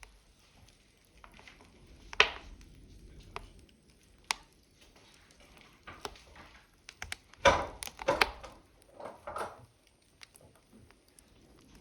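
Wood fire burning in a stove, with irregular sharp pops and crackles over a low steady rumble. The loudest cluster of crackles comes about seven and a half seconds in.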